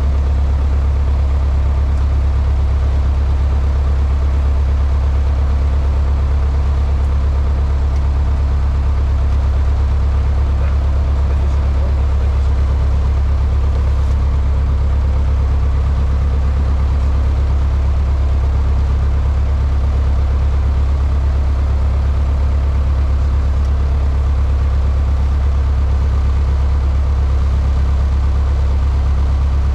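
Cessna 152's four-cylinder Lycoming piston engine and propeller running steadily, a loud, even low drone heard from inside the cockpit.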